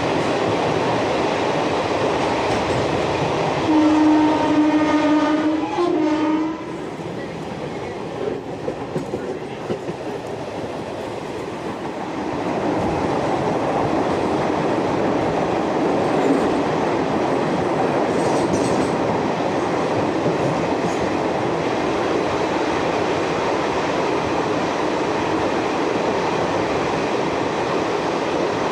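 Indian Railways express train running, heard from aboard, with a train horn sounding once for about three seconds about four seconds in. The running noise then drops for a few seconds, with some rattling clicks, before rising again and staying steady.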